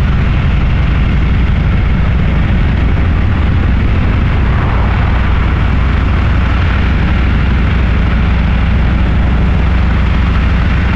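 Motorcycle engine running steadily at cruising speed, with heavy wind rush over the microphone.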